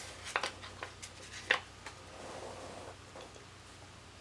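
A few light clicks and a soft rustle of paper from handling a paper planner and pen.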